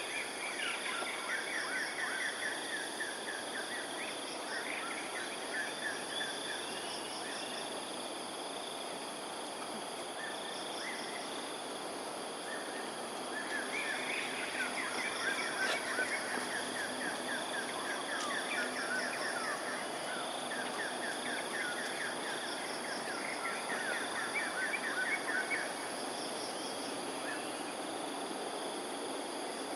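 Birds calling in bursts of rapid chattering trills lasting several seconds, with short repeated high notes between them. Under them runs a steady high insect drone and a low background hum.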